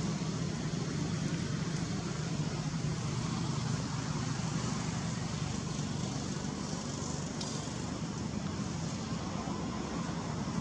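Steady background noise: a low hum under an even hiss, without clear animal calls or speech.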